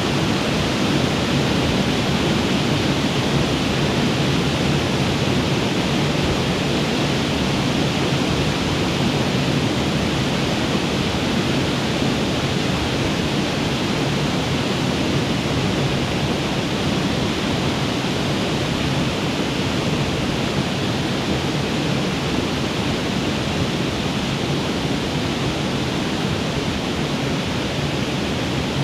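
Waterfall rushing steadily, a constant full roar of falling water with no change.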